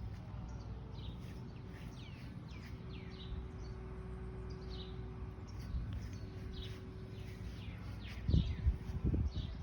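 Small birds chirping: many short, quick calls that sweep downward, repeating all through, over a low rumble. A couple of louder low thumps come near the end.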